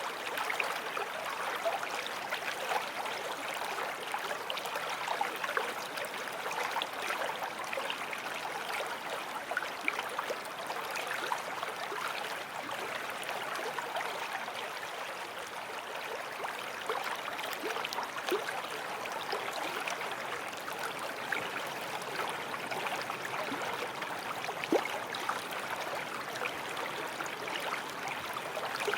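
Forest stream running steadily over stones, a constant rush flecked with small splashes and gurgles.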